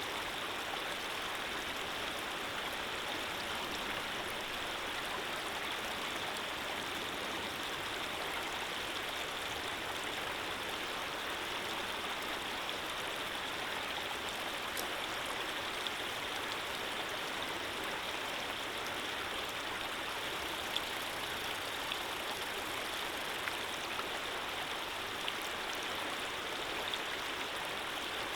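Running water flowing steadily, a constant rushing with a few faint droplet ticks.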